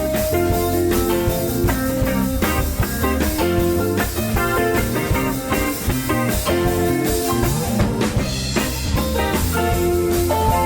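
Live rock band playing an instrumental passage: guitar over a steady drum kit and bass line, with no singing.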